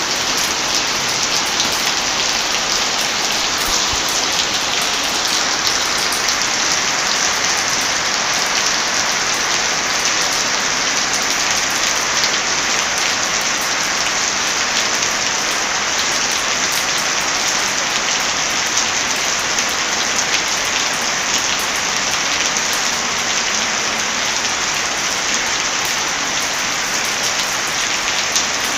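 Heavy rain falling steadily: a loud, even hiss with many small sharp ticks of drops.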